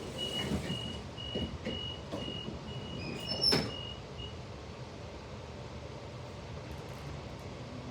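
Suburban train door-closing warning beeping rapidly, about two beeps a second, with the doors knocking and then shutting with a loud thud about three and a half seconds in. The beeping stops soon after, leaving the steady noise of the train.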